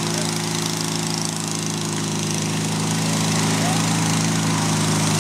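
Car engine running steadily, growing a little louder after about three seconds.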